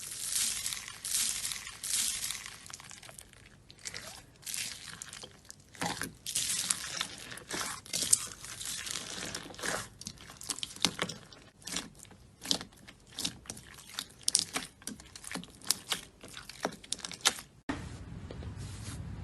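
Slime being squeezed and pressed by hand, giving irregular crisp crackles and popping clicks that come thicker in the middle; they stop suddenly near the end, leaving a steady low hiss.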